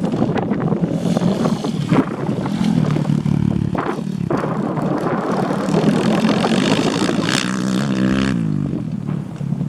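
Dirt bike engine running hard at high revs on a grasstrack, its pitch falling about eight seconds in as the throttle is rolled off.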